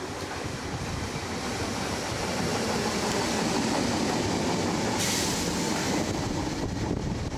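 Southern Class 313 electric multiple unit passing close by, its wheel and rail noise building to a peak as the carriages go past. A sudden hiss cuts in about five seconds in.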